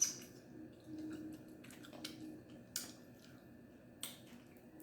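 Quiet eating sounds: a few soft clicks and smacks spaced through the pause, over a faint steady low hum.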